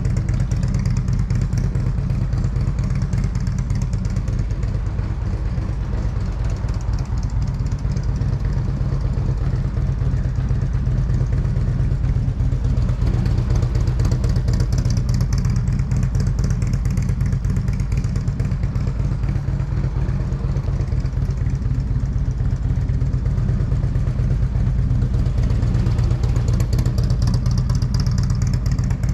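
Motorcycle engine running steadily, swelling slightly twice, around the middle and near the end.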